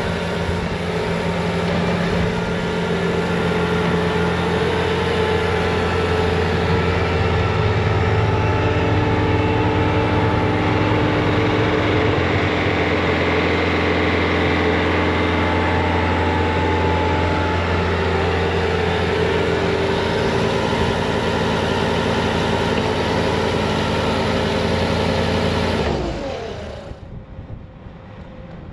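Bobcat T66 track loader's diesel engine running steadily under load with its hydraulic snowblower attachment throwing snow. Near the end the engine and blower wind down sharply, dropping in pitch and level.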